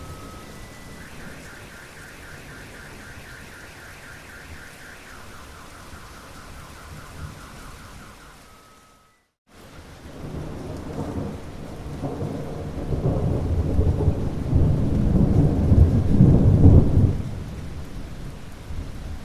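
Steady rain, with a high pulsing tone over it for the first several seconds. The sound cuts out briefly about nine seconds in, then a rolling thunder rumble over the rain builds to a loud peak and fades a couple of seconds before the end.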